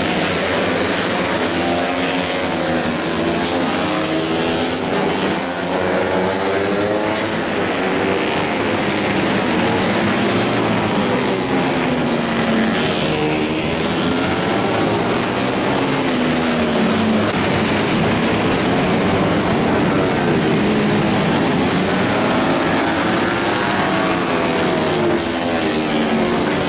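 Several racing motorcycles' engines revving hard, their pitches overlapping and rising and falling again and again as they accelerate, shift and pass.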